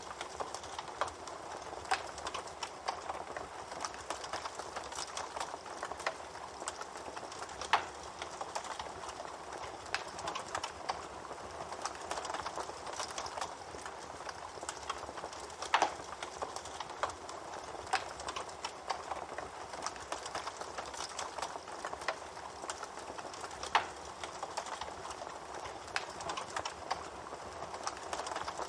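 Campfire crackling: a steady dense crackle of small snaps, with now and then a sharper, louder pop.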